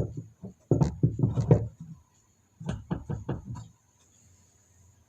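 Washing-machine pulsator and tub parts knocking and tapping as they are handled, in two quick runs of short hard knocks, the second ending a little under four seconds in.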